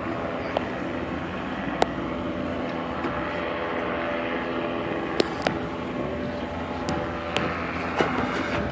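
A steady engine hum holding one pitch, with a few sharp clicks or knocks over it.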